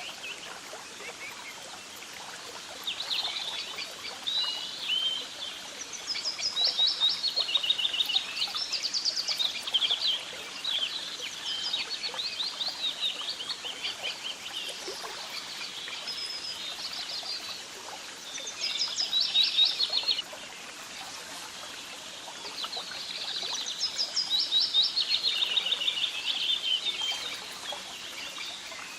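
Songbirds singing in rapid, trilling chirp phrases, in several bouts with short pauses between, over a steady background hiss.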